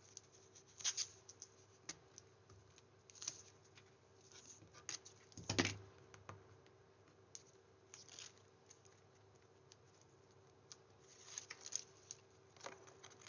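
Faint handling of paper and card: scattered rustles, light taps and small scratches as card pages are folded and a sentiment is stuck down. There is one louder knock about five and a half seconds in.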